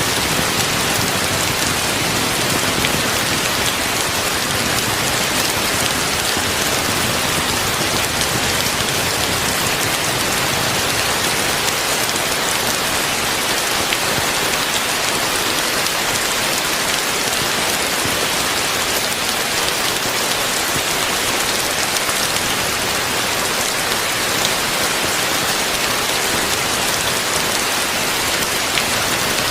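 Heavy rain falling steadily, a dense, even hiss of drops without a break.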